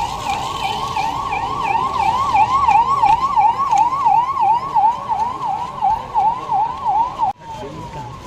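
Electronic emergency-vehicle siren on a fast yelp, about three rising-and-falling sweeps a second. Near the end it drops off suddenly and carries on much fainter.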